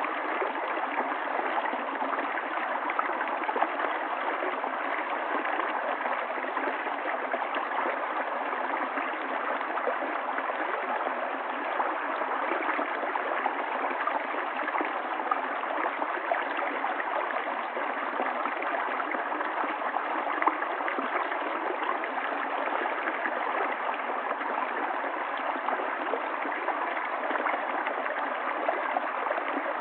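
River water flowing in a steady, continuous rush with light gurgling.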